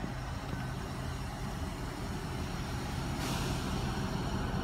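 Class 395 electric multiple unit approaching along the platform, a low rumble that grows slowly louder as it nears. A high hiss joins about three seconds in.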